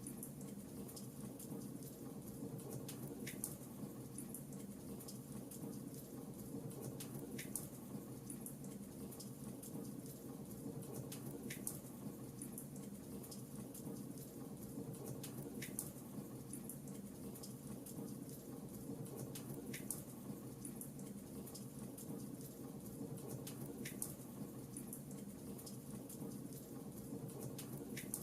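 Fireplace crackling: a steady low rumble of burning wood with small, fine crackles and a sharper pop about every four seconds.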